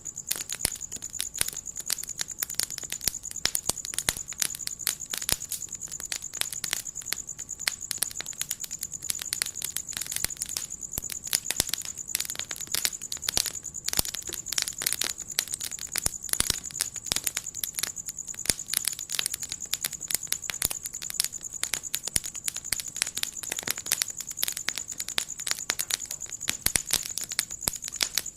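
Wood fire crackling in a fireplace, with dense, irregular pops and snaps throughout, over a steady high-pitched hiss.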